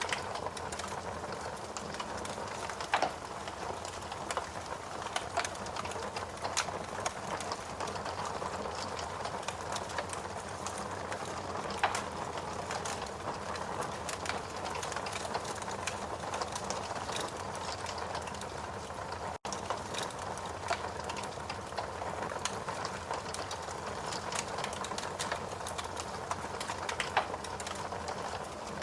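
Steady rain mixed with wood crackling in a fireplace, with sharp pops every few seconds. The sound drops out for an instant about two-thirds of the way through.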